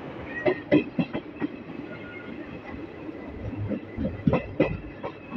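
Express train coach running on the track: its wheels clatter over rail joints in irregular clicks and knocks, with a strong pair of knocks about four seconds in, over a steady running rumble.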